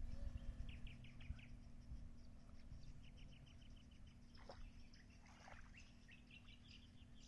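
Faint birds calling: quick runs of short repeated chirps, twice, and a couple of descending calls in the middle, over a low rumble and a steady low hum.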